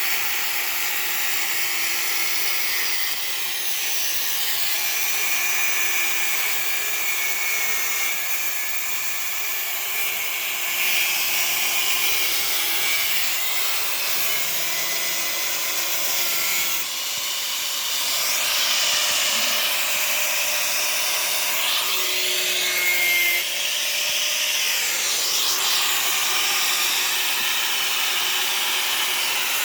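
Machinery running steadily, its noise mostly high-pitched, with pitch sweeps rising and falling in the second half.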